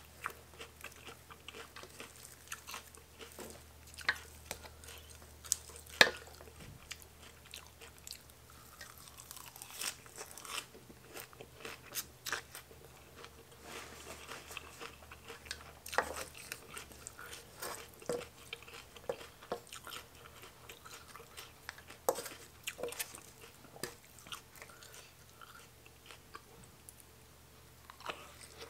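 Close-miked chewing and biting of rice noodles with fresh greens and sprouts, with irregular crunches and small sharp clicks; the loudest comes about six seconds in.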